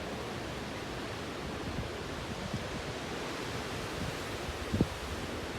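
Strong hurricane wind blowing in a steady rush, with a few short low thumps of gusts buffeting the microphone, the strongest near the end.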